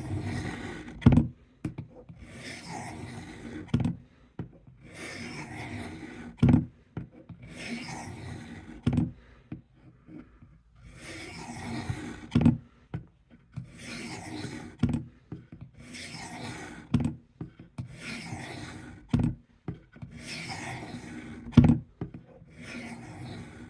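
Fine-grit diamond stone of a Work Sharp guided sharpener rasping along a lubricated S30V steel knife blade in a series of long, even strokes, about ten in all. Most strokes end with a short knock.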